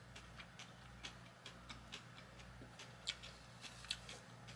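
Faint, irregular mouth clicks and smacks of someone chewing food close to the microphone, a few louder ones about three and four seconds in, over a steady low hum.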